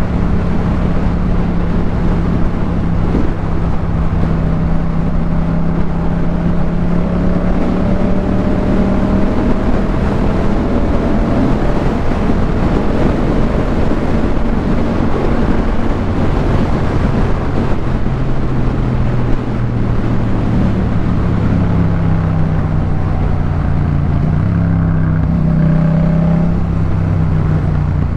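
Yamaha MT-07's 689 cc parallel-twin engine through a Jeskap K4 full aftermarket exhaust, running at fairly steady revs while riding. In the last third the engine pitch dips and then climbs again.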